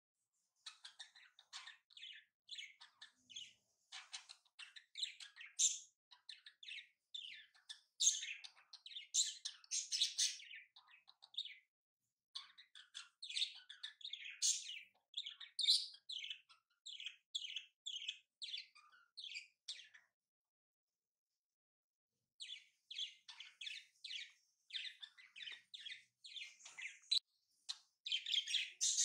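Small birds chirping in quick, busy runs of short high chirps, falling silent for about two seconds past the middle.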